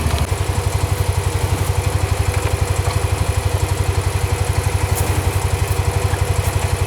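Massey Ferguson tractor engine idling steadily, with a fast, even pulsing beat.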